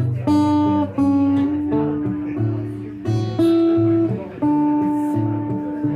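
Acoustic guitar played thumbpicking style: a steady alternating thumb bass under plucked single melody notes, with no singing.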